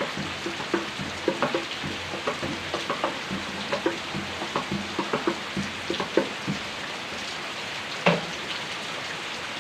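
Heavy rain falling steadily, with many close drops splashing and plinking in quick irregular succession for the first several seconds, then a plainer steady hiss; one louder splat about eight seconds in.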